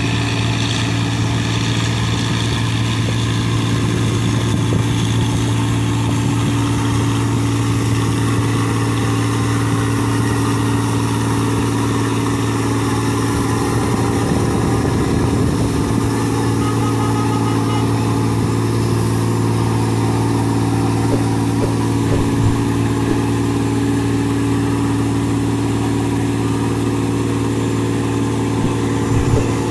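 A boat's engine running steadily, a constant low drone that holds the same pitch throughout.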